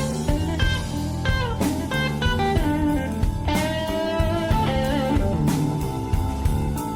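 Blues band's instrumental break in a slow blues: an electric lead guitar bends and sustains notes over bass and drums.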